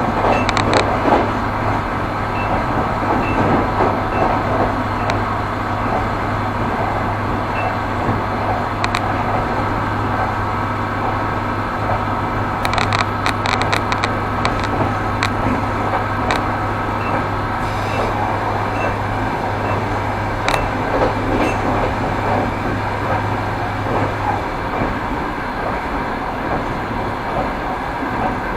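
Railway carriage wheels knocking over rail joints as a train runs along, over a steady rumble, with scattered sharp clicks. A low steady hum in the background cuts out shortly before the end.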